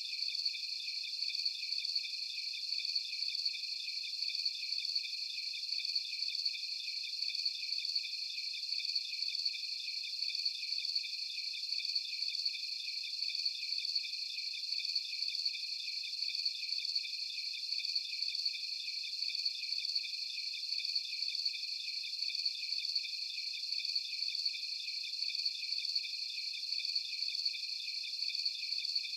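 Crickets chirping in a dense, steady chorus: a high-pitched, evenly pulsing trill with nothing lower beneath it.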